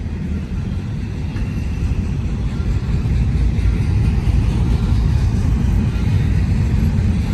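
BNSF intermodal freight train's container cars rolling past, a steady low rumble of steel wheels on rail.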